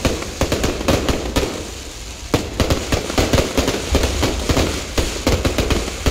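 Fireworks and firecrackers going off: a dense, irregular run of sharp cracks, with deeper booms mixed in from about two-thirds of the way through.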